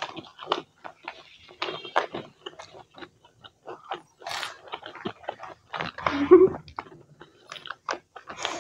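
Close-up chewing and crunching of samosa roll pastry, many small crisp clicks and mouth noises in quick succession, with one louder, brief sound about six seconds in.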